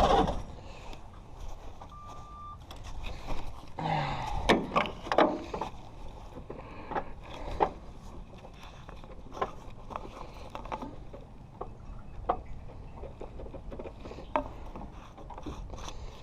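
Scattered clicks, knocks and scraping with no engine running, after a failed cold crank of a 6.2 diesel. A short steady beep sounds about two seconds in, and a cluster of louder knocks comes around four to five seconds.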